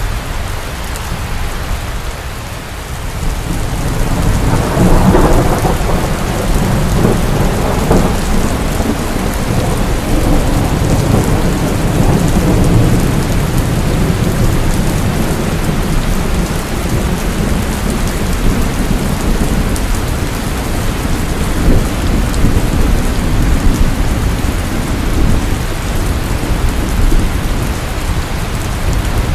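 Heavy rain falling steadily, with rolling thunder: a rumble builds about four seconds in and rolls on for a long while under the rain.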